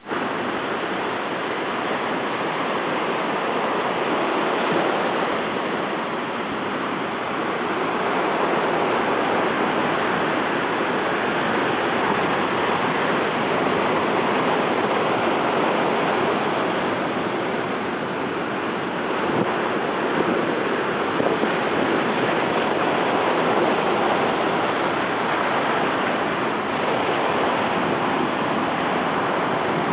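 Large typhoon-driven storm waves breaking against a seawall breakwater: a continuous, steady wash of surf noise.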